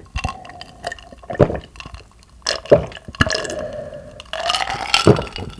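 Close-miked wet eating sounds: squishy chewing and several sharp mouth smacks at irregular intervals.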